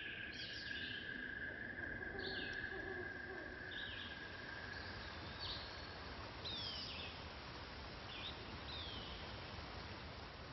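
Birds calling: short, high, downward-sweeping chirps repeated every second or two over a steady outdoor hiss. A steady high-pitched tone, like a continuous insect drone, runs underneath and stops about six seconds in.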